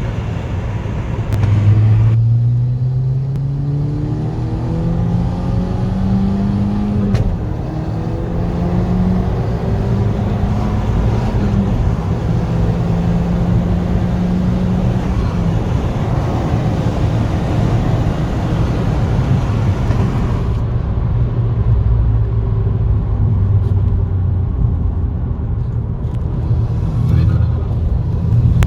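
Remapped VW Golf GTI Mk5's turbocharged four-cylinder engine accelerating hard, the engine note rising with the revs and dropping at each gear change, about 7 and 12 seconds in. Short pops from the exhaust come at the gear changes, from the pops-and-bangs code in the map.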